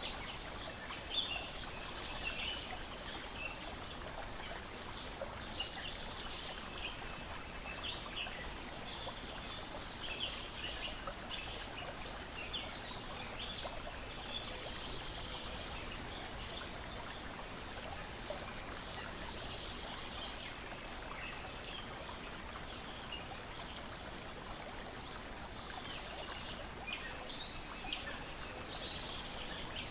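Lake water lapping and splashing in a steady wash, with birds chirping and singing throughout in many short, high calls.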